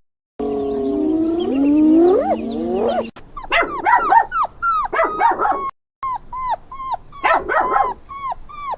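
Dogs calling: a few seconds of low, sliding howl-like calls, then a quick run of short, high yips and whines, some overlapping.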